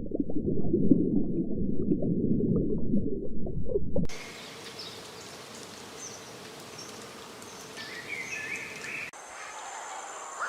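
A loud, muffled low rumble that cuts off after about four seconds, then quieter outdoor ambience with short high bird-like chirps. Near the end, a steady high insect-like buzz joins in.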